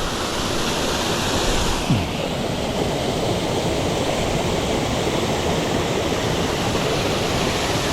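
Steady rush of fast-flowing water in a mountain stream, turning a little duller about two seconds in.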